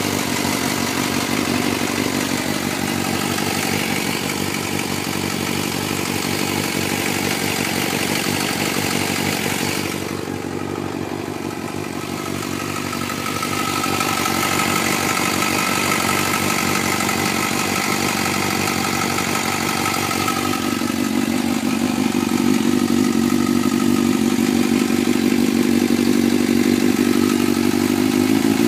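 2004 Suzuki GSX-R600 inline-four engine idling after a cold start, with a ticking from the engine that the owner suspects is a cam chain tensioner needing replacement. The tone dulls briefly about ten seconds in and turns deeper and fuller about twenty seconds in.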